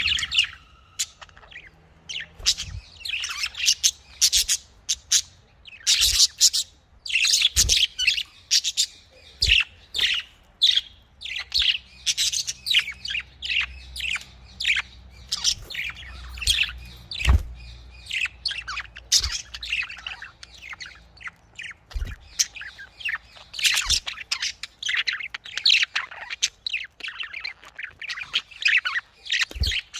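Budgerigars chirping and chattering in quick, high, overlapping calls with the odd squawk, as in a busy aviary, with a few soft knocks in between.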